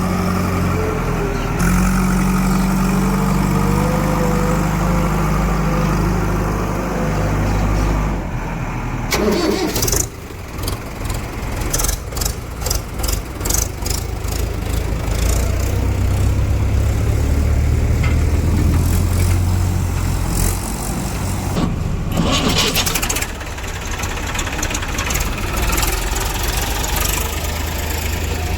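Heavy diesel engines running. A steady hum gives way to a sudden change about nine seconds in, then to a pulsing, labouring stretch, then to a steadier, heavier engine note under load.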